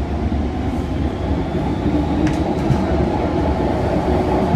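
MTR M-Train electric train under way: a steady rumble of wheels and running gear that grows slightly louder, with a sharp click a little over two seconds in.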